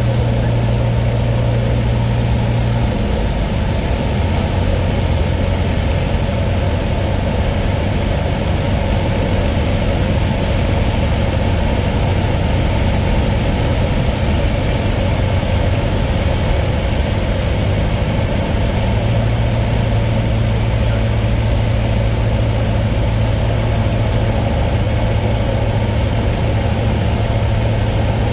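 Cessna 152's four-cylinder Lycoming engine and propeller droning steadily. The engine note drops a little about three seconds in and rises back up again near twenty seconds in.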